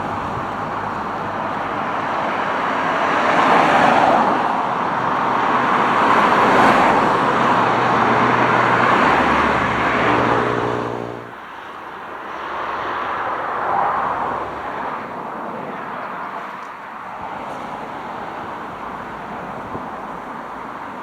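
A vehicle passing close by, its engine hum and rolling noise swelling and fading, cut off suddenly about eleven seconds in, followed by quieter distant traffic noise.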